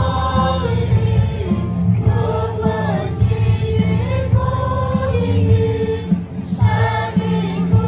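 A choir singing a Christian worship song in Mandarin over instrumental accompaniment.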